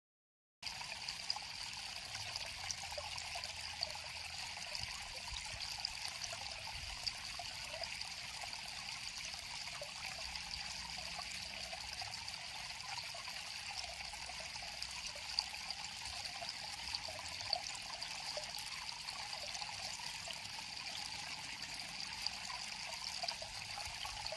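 River water flowing and trickling over stones: a steady, even rush with small scattered splashes.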